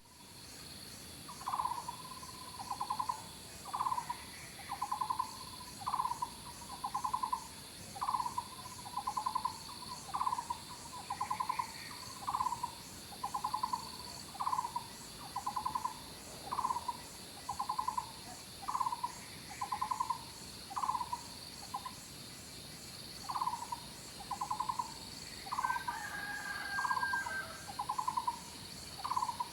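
Outdoor animal sounds: a short, rapid rattling call repeated about once a second, over a steady high-pitched drone of insects. A different, higher call breaks in near the end.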